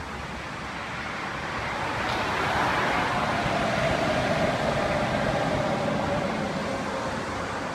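High-speed train passing by: a rushing noise that swells over a few seconds and then slowly fades, with a faint falling tone in the middle.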